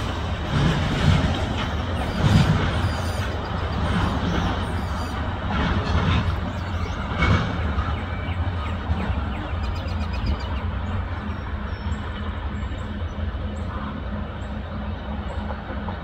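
Rear cars of a freight train rolling away down the track: a steady rumble that slowly fades, with several louder knocks of wheels over the rails in the first half.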